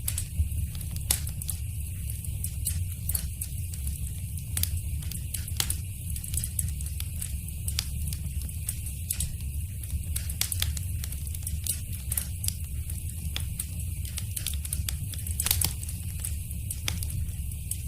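Wood fire in a fireplace crackling, with irregular sharp pops and snaps, a few louder than the rest, over a steady low rumble.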